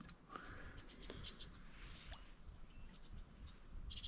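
Faint outdoor ambience: a steady high-pitched insect drone with a few soft clicks.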